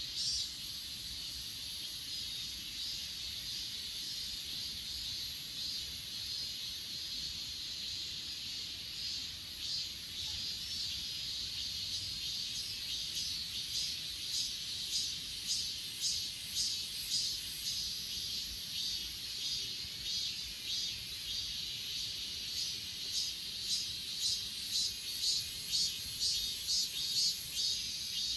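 A chorus of grass insects keeps up a steady high-pitched trilling. About halfway through, a louder pulsed chirping joins in, roughly two chirps a second.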